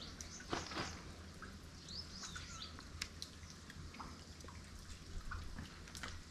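Small birds chirping in short high calls, with a few sharp clicks or drips and a low steady hum underneath.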